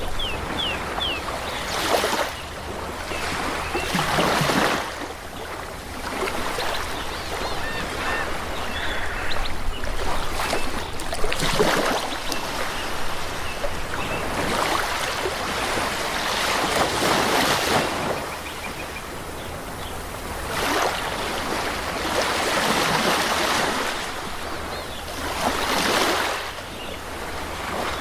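Ocean waves washing onto a beach, the surf swelling and easing every few seconds. A few faint bird chirps come near the start and again about a third of the way in.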